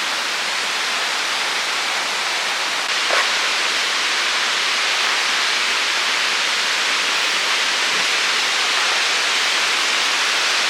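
Steady rush of water from a waterfall and its stream, an even hiss that gets a little louder about three seconds in.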